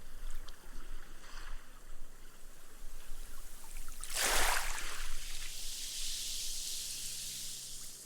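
A small wave lapping up a sandy beach. It swells to a wash about four seconds in, then the foam fizzes as the water seeps away into the sand, fading toward the end.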